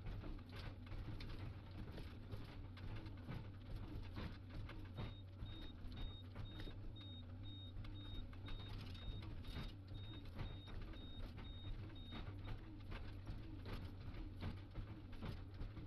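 Excavator engine running steadily in heavy rain, with raindrops pattering in many quick ticks. A high beep repeats about twice a second for several seconds in the middle.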